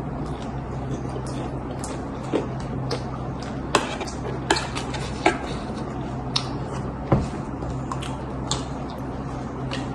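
Spoons clinking and scraping against dishes during eating: a scatter of short sharp clicks at irregular intervals over a steady low hum.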